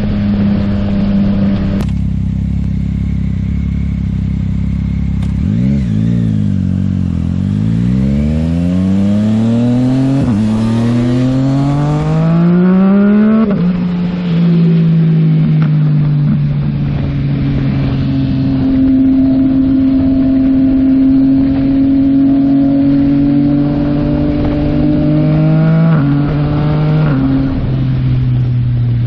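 Yamaha MT-09's three-cylinder engine through a Yoshimura AT2 full exhaust, under way. The engine note dips about six seconds in, then rises steadily under acceleration for several seconds and drops at an upshift. It settles into a steady cruise, with another small shift down in pitch near the end.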